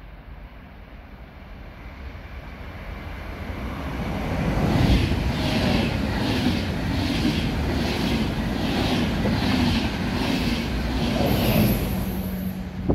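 Passenger train approaching and rushing past a platform at speed. Its wheels clatter in a regular beat about every 0.7 s as each coach's bogies pass, and the sound swells and then falls away as the train goes by.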